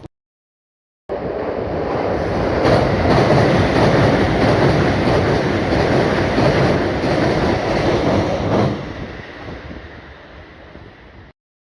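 A train passing close by: a loud rush of wheels on rails that starts abruptly about a second in, stays loud for several seconds, then fades as the train moves away and cuts off just before the end.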